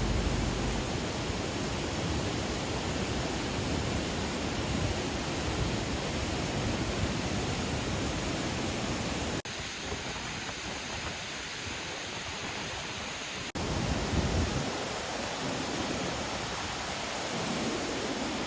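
Steady rushing of Langfossen waterfall's falling water. It drops suddenly to a quieter rush about nine seconds in and comes back up about four seconds later.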